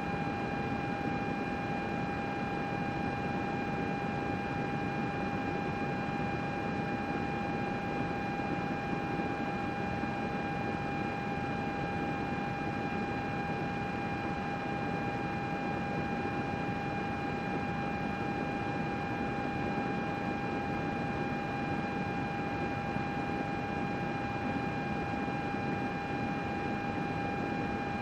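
Computer running steadily: a constant airy fan whoosh with a steady high whine over it.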